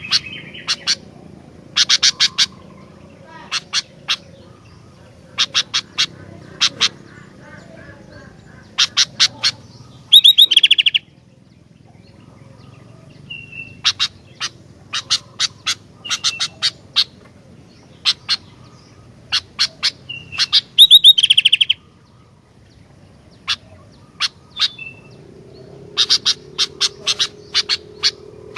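Sooty-headed bulbul (kutilang) singing in groups of short, sharp, repeated notes. About ten seconds in and again about twenty seconds in, it breaks into a louder rapid trill.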